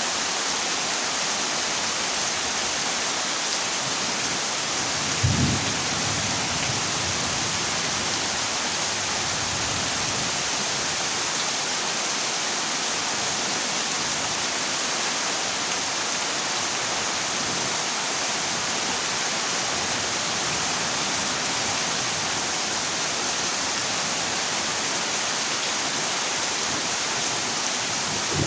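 Heavy rain pouring steadily on a corrugated zinc roof, with one short rumble of thunder about five seconds in.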